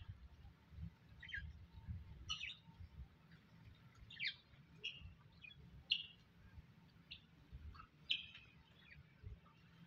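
Faint wild birds chirping, short separate calls roughly once a second, some dipping in pitch, over a low rumble.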